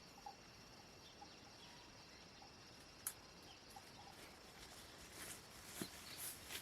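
Near silence: faint forest ambience with scattered short, high chirps, a single sharp click about three seconds in, and soft rustling that grows near the end.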